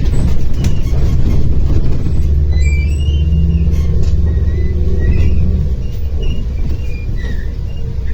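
Interior of a MAZ-105.465 articulated city bus under way: a steady low diesel-engine rumble. A stronger engine note holds from about a third of the way in and eases off after about two thirds. Short high squeaks and rattles from the body are heard throughout.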